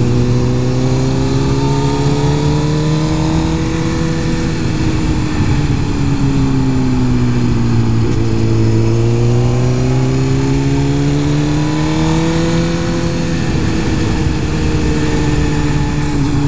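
Superbike-spec Suzuki GSX-R 1000 inline-four running under way, its pitch rising and falling twice as the rider accelerates and eases off through the bends, over a steady rush of wind and road noise.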